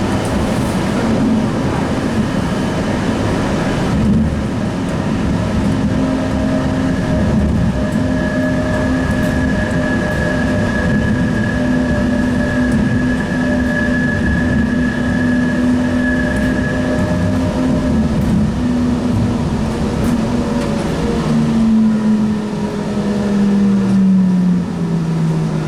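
Sound Transit Link light rail train heard from inside the car: a steady rumble of wheels and running gear under a steady electric motor whine. Over the last few seconds the whine falls in pitch as the train slows.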